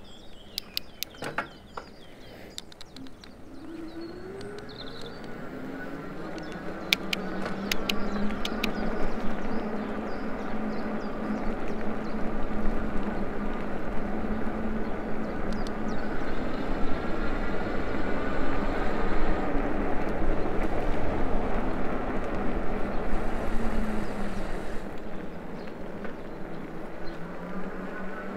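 ENGWE E26 fat e-bike under way: its hub motor whines, rising in pitch as the bike picks up speed, then holds steady, dips and climbs again near the end, over the rolling noise of the fat tyres. A few sharp clicks come about seven to nine seconds in.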